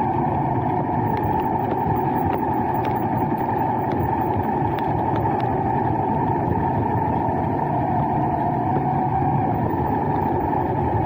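Steady running noise of a vehicle in motion, an even rumble with a slight hum, with a few faint ticks scattered through it.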